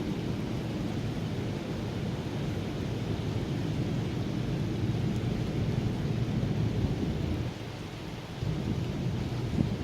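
Steady rain with a continuous low thunder rumble, dipping briefly a little past the middle and swelling again.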